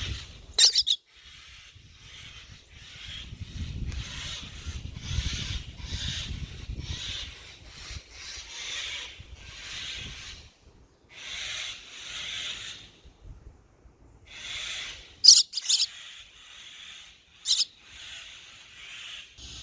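A baby bird repeatedly making short raspy calls, roughly one a second, with three sharp high chirps: one near the start and two close together near the end. A low rumble runs underneath for a few seconds early on.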